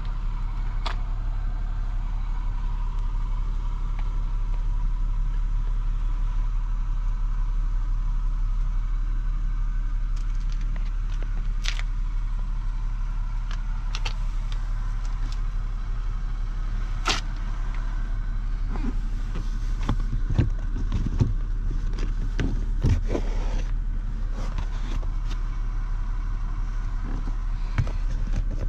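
A 1994 Lexus ES300's 3.0-litre V6 idling with a steady low rumble. There are a few sharp clicks and knocks in the second half.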